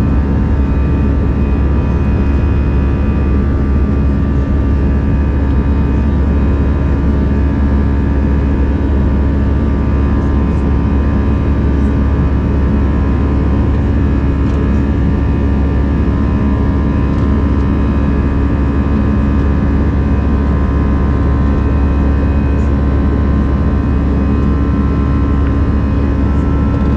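Steady cabin noise of an Airbus A319 airliner: a constant low engine rumble with several steady whining tones above it.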